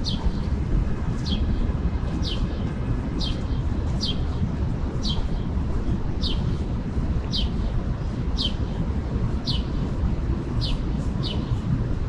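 A bird repeating a short, high chirp that slides downward, about once a second, over a steady low rumble.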